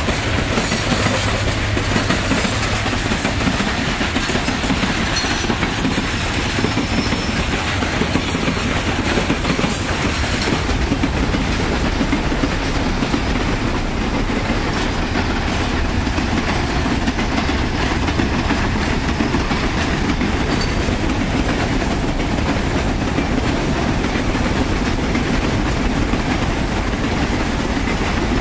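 Freight train wagons (covered hoppers, boxcars and container flatcars) rolling past: a steady rumble of steel wheels on rail, with a clickety-clack of wheels over rail joints that is sharpest in the first ten seconds.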